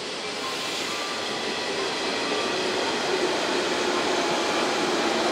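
Rail running noise of a train, an even rumble and hiss that grows steadily louder.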